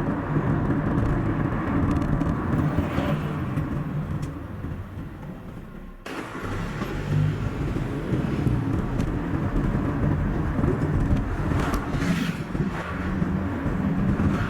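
Car driving along a road: steady engine and tyre road noise, played at double speed. It fades for a moment, then cuts back in suddenly about six seconds in.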